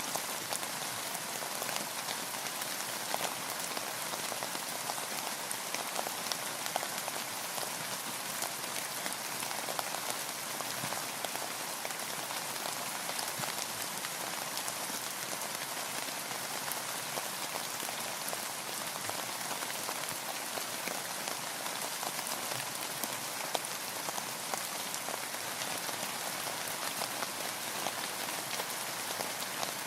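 Rain falling steadily on a boat, a constant hiss with many single drops heard as small ticks.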